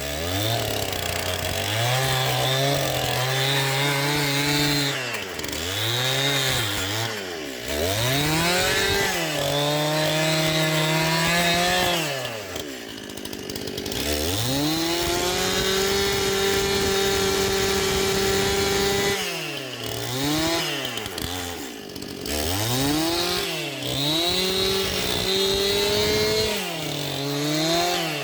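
Two-stroke chainsaw driving a belt-driven debarking attachment, stripping bark from wood. The engine revs up and drops back many times, and is held at high revs for about five seconds midway.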